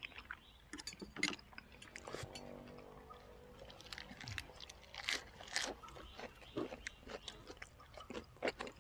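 A person chewing and biting food close to the microphone: irregular short clicks and mouth noises.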